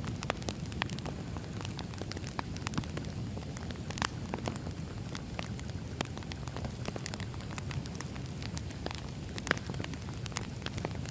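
Burning firewood crackling: irregular sharp pops and snaps over a steady low rumble, with one louder snap about nine and a half seconds in.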